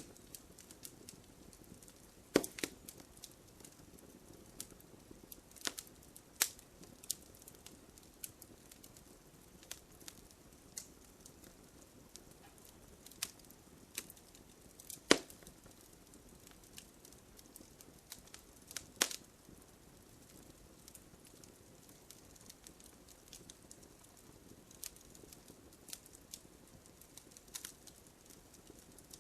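Wood campfire burning: a soft low hiss of flames with scattered sharp crackles and pops from the burning wood, three louder snaps standing out.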